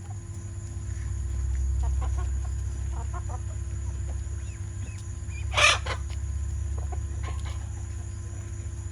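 Chickens clucking in short scattered calls, with one loud, brief squawk about halfway through, over a steady low rumble.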